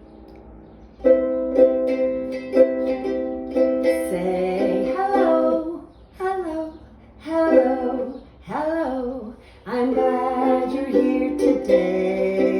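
A greeting song: a voice singing over strummed string chords, starting about a second in.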